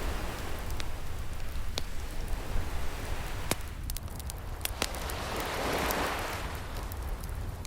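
Wood fire crackling, with sharp pops scattered through it, over the steady wash of ocean waves, one wave swelling and breaking about three quarters of the way through.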